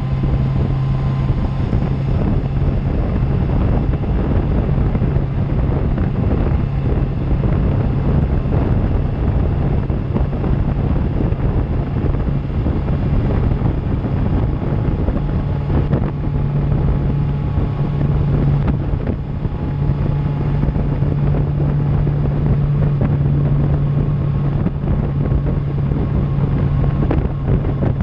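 Suzuki GSX-R750's inline-four engine through an Akrapovic exhaust, running at steady revs while riding at speed, with heavy wind noise on the microphone.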